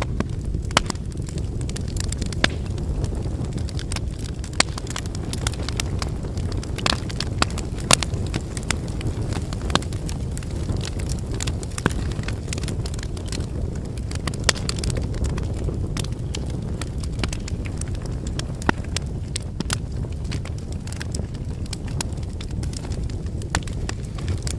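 Wood fire burning: a steady low rumble of flames under frequent irregular crackles and pops from the burning firewood, with a few louder snaps.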